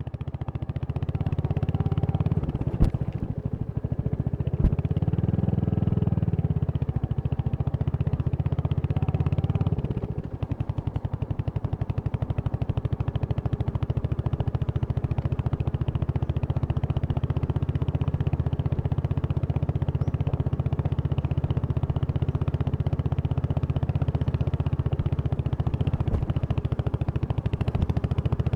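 Royal Enfield Hunter 350's single-cylinder engine running with an even pulsing beat. The revs rise around five seconds in and fall back with a drop in loudness about ten seconds in, then hold steady. There are two sharp clicks early on.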